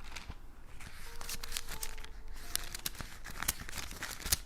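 Bible pages being leafed through: a quick run of crisp rustles and crackles as thin paper is turned over.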